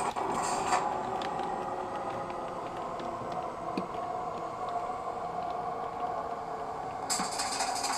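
Model E626 electric locomotive running, its DCC sound decoder and motor giving a steady hum with a few faint clicks, and a burst of hiss about seven seconds in.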